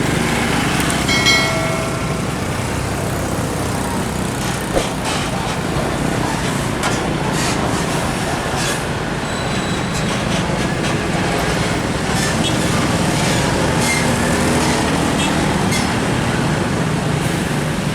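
Heavy diesel trucks driving past on a road: engines running with tyre noise and scattered rattles and clanks. A brief high-pitched squeal sounds about a second in.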